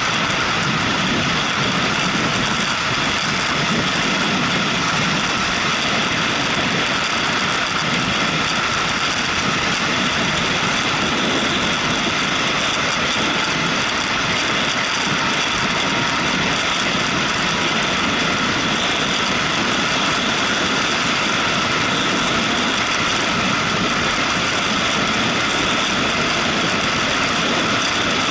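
Motorcycle running steadily while riding, its engine under an even rush of road and wind noise.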